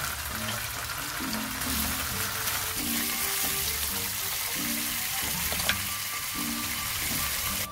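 Chicken breast fillets frying in oil in a nonstick pan: a steady sizzle, with one sharp click about three-quarters of the way through.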